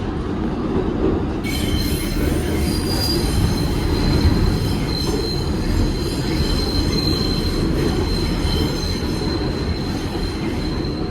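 Inside an R188 subway car on the New York City 7 train as it runs: a steady low rumble of wheels and motors. About a second and a half in, a high, steady wheel squeal starts and holds on.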